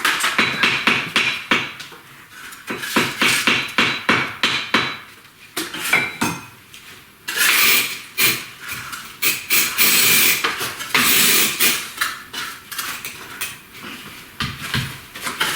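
Bricklaying work: quick, repeated metallic scrapes and taps of a tool against brick and mortar, with a short pause about six seconds in.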